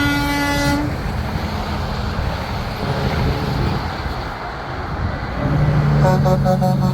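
A big-rig truck's train-style multi-note air horn cuts off under a second in. Passing diesel truck engines and tyre noise follow. Near the end, another horn sounds in a quick series of short toots, several a second.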